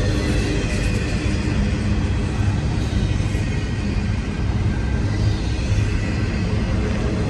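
Container cars of a CN intermodal freight train rolling past, a steady rumble of steel wheels on rail.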